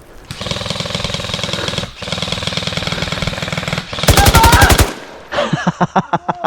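Airsoft rifle firing on full auto in three bursts of rapid clicking shots; the first two are long and even, the third shorter and louder.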